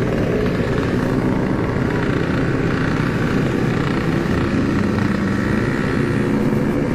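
Yamaha RX-King's single-cylinder two-stroke engine running at a steady, relaxed cruise on the road, heard through its stock-style Packing Power aftermarket exhaust.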